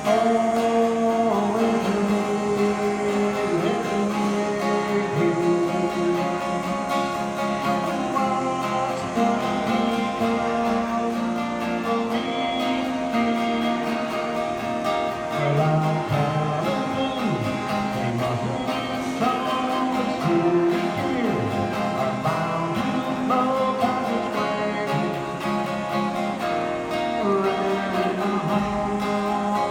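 Music: a strummed acoustic guitar, with a voice singing along.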